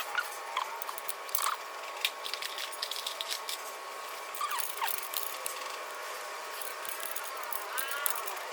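Ratchet wrench with a 21 mm socket clicking in short, irregular runs as a brake caliper bolt is backed out, with a few brief squeaky chirps.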